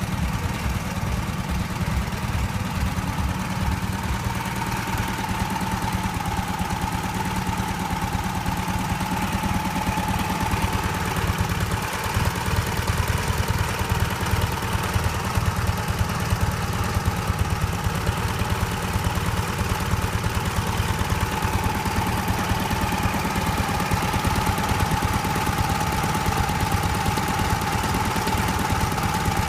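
A Ural IMZ-8.103-10 motorcycle's flat-twin engine running steadily at one speed, its low beat even throughout, with a thin high whine held above it.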